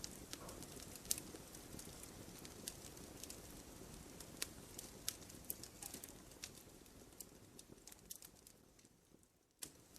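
Fireplace wood fire crackling, with scattered sharp pops and snaps over a low rumble of flames. It grows fainter toward the end, almost drops away, then comes back suddenly about nine and a half seconds in.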